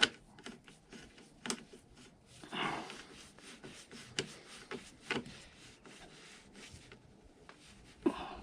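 Scattered light clicks and a brief scrape, about two and a half seconds in, of small metal parts and tools being handled while a through-bolt is fitted and tightened on a scooter.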